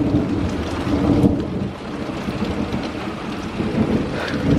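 Heavy rain pouring down with thunder rumbling, swelling about a second in and again near the end.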